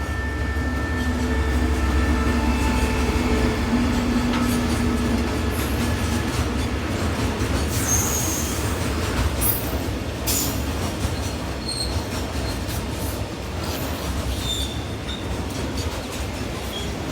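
A freight train of container wagons rolling past with a continuous rumble, and a few brief high wheel squeals partway through.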